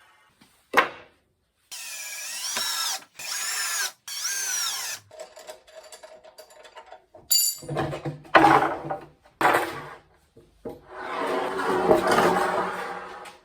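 Power drill run in repeated bursts, its motor pitch rising and falling with the trigger, working into wood.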